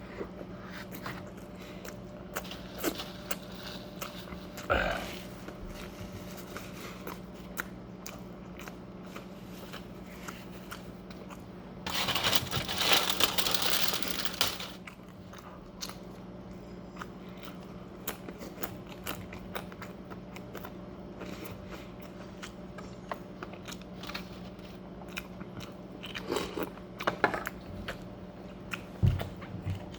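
Close-up eating sounds: biting and chewing food, with many small crunches and smacks. About two-fifths of the way in there is a louder noisy stretch of about three seconds, and a steady low hum runs underneath.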